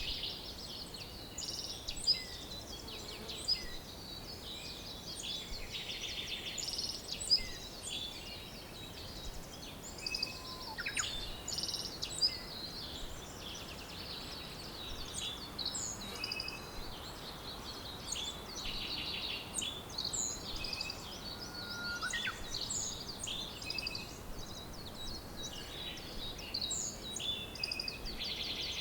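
A chorus of many songbirds singing and chirping at once, with short calls and rapid trills overlapping continuously, over a steady faint hiss.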